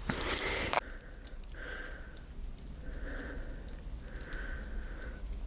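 Water dripping in an abandoned subway tunnel: scattered small ticks of falling drops. It opens with a short, loud hiss lasting under a second.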